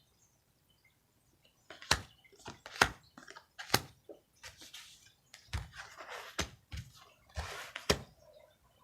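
Tarot cards being handled on a table: a run of sharp taps with short papery rustles between them, starting after a moment of quiet.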